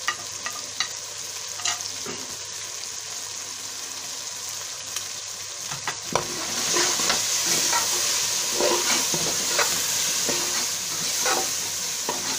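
Spiced oil sizzling in a metal pot under chopped tomatoes, green chilies and ground spices: the masala frying. About six seconds in, a spoon starts stirring, scraping and clicking against the pot, and the sound grows louder.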